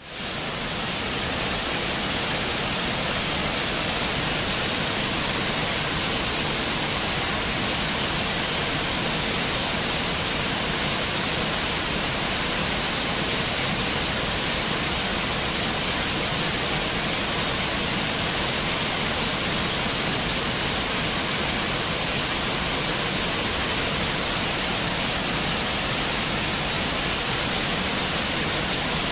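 Flowing water splashing and rushing steadily, like a small waterfall or babbling stream, fading in over the first second.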